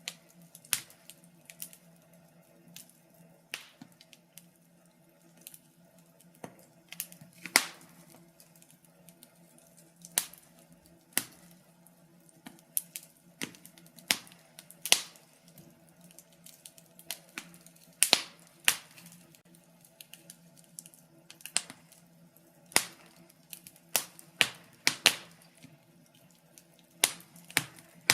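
Wood fire burning in a fireplace, crackling with irregular sharp pops and snaps, some much louder than others, over a faint steady hum.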